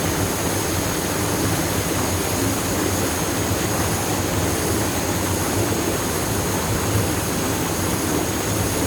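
Waterfall pouring steadily into its pool, an even rush of falling water.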